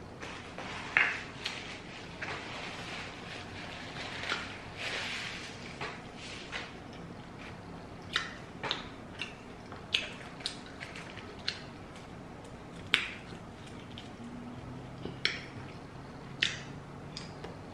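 Close-up mouth sounds of a person eating: wet chewing with irregular sharp lip-smacking clicks, a loud one about a second in and more in bunches later on.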